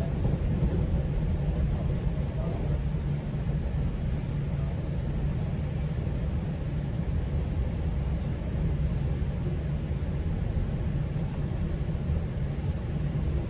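GO Transit commuter train running at speed: a steady low rumble from the wheels on the track.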